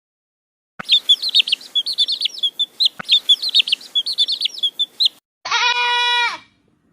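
A small bird chirping in rapid, high, repeated notes for about four seconds, then a single goat bleat, held about a second and dropping at the end.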